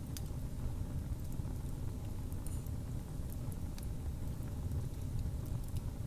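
Wood fire burning in a fireplace: a steady low rumble from the flames with scattered small crackles and pops.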